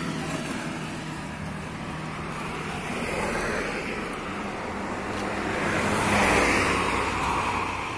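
Motor vehicle engine and road noise, steady at first and swelling as a vehicle passes about six seconds in.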